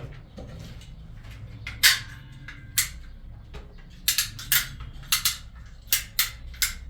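Irregular sharp taps or knocks, hard objects striking each other. One loud knock comes about two seconds in, and from about four seconds on they come roughly twice a second, some in quick pairs. A steady low hum runs underneath.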